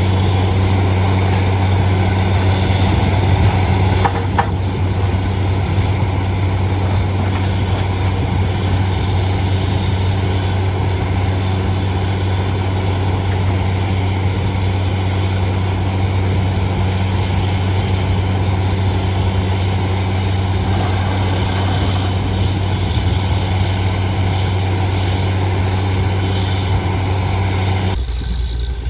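Borewell drilling rig running as it drills, a loud steady engine drone with a deep hum that changes abruptly near the end.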